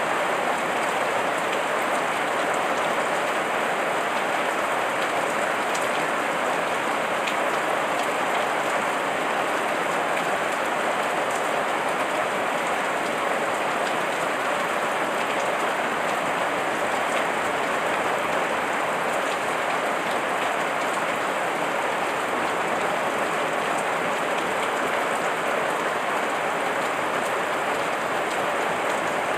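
Heavy rain falling steadily: a dense, even hiss with faint individual drop ticks scattered through it.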